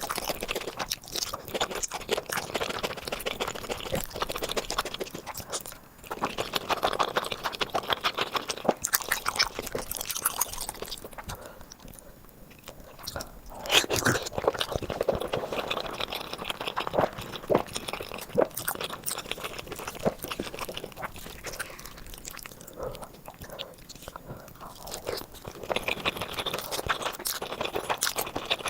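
Close-miked eating: a person biting and chewing food with wet, crunchy mouth sounds, in irregular bursts with a few short pauses.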